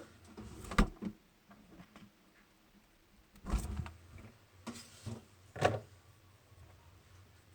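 A few separate knocks and thumps, the loudest about a second in and three more spread through the middle, with faint handling noise between them.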